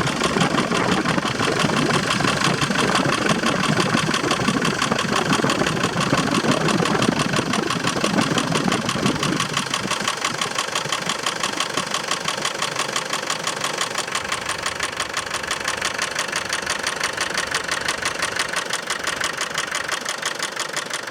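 Land Rover Defender 300Tdi 2.5-litre four-cylinder turbodiesel running steadily at idle with a fast, even clatter, carrying the strange noise that appeared after a timing belt change, which the owner suspects is a loose timing belt or a misaligned pulley. The deeper part of the sound drops away about halfway through.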